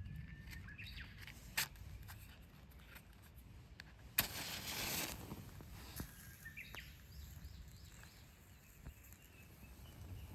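Birds chirping over a steady low rumble. A sharp click comes about a second and a half in, and a loud rustle lasting about a second comes about four seconds in.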